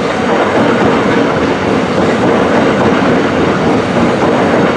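Southeastern Class 395 'Javelin' electric multiple unit passing at speed close by: a loud, steady rush of wheels on rails and air, with a faint steady hum.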